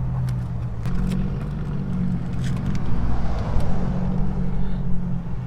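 Car on the road: a steady low engine hum with tyre and road noise, swelling a little about midway.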